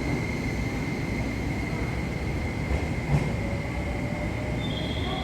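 Train running with a steady low rumble and a constant high tone over it.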